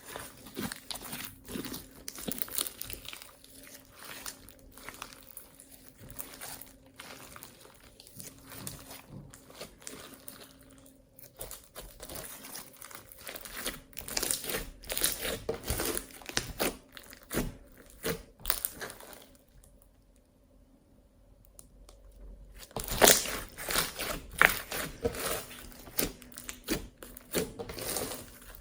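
Slime being squished and stretched by hand, making a dense crackle of small clicks and pops. It pauses for a few seconds about two-thirds of the way through, then comes back louder.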